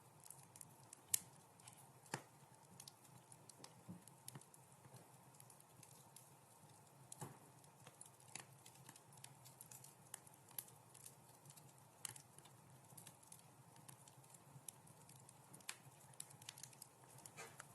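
Wood fire crackling in a fireplace: scattered sharp pops and snaps at irregular intervals over a faint low hiss, the loudest pop about a second in.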